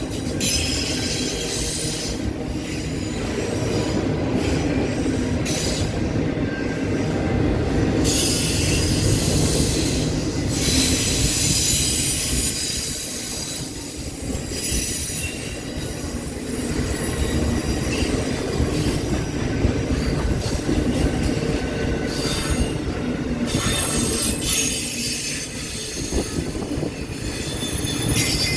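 Intermodal freight cars rolling past on a curve, with a steady low rumble of wheels on rail, high-pitched wheel flange squeal that comes and goes, and scattered clicks over rail joints.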